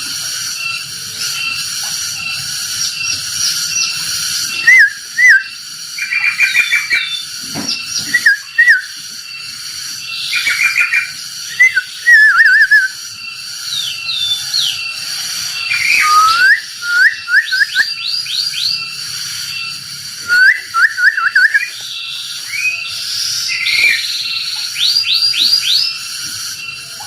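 A lovebird making shrill chirps in quick clusters of sharp rising and falling squeaks every few seconds, over a steady cicada drone in much the same pitch range.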